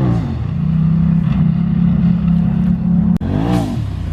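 Turbo side-by-side's engine running steadily, with a sharp click about three seconds in followed by a quick rev that rises and falls.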